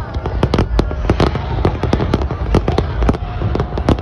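Large aerial fireworks display: shells bursting in rapid, overlapping bangs, several a second, over a steady low rumble.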